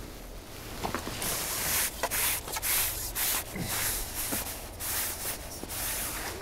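Irregular rustling and rubbing as a just-landed roach is handled and unhooked, in short hissy bursts starting about a second in, with a few light clicks.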